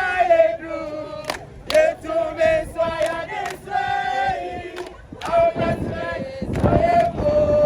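A crowd of protesters singing a chant together in long held notes, with sharp percussive hits now and then.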